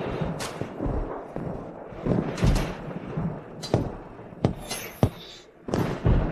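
Dramatic sound-effect booms: about six sharp hits spread over several seconds, over a low rumble.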